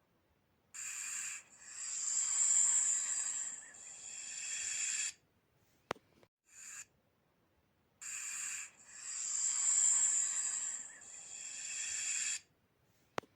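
Snake hissing, a looped recording: a short hiss followed by a long hiss of about four seconds, the pair heard twice. A sharp click comes before each round.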